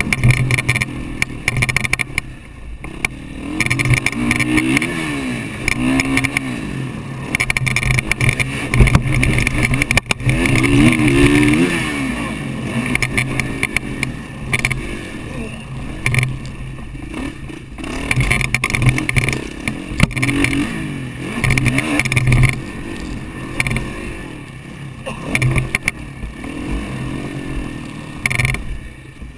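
Motocross bike engine revving up and dropping back again and again as the throttle is worked through the track, heard from a helmet-mounted camera, with wind and rumble buffeting the microphone.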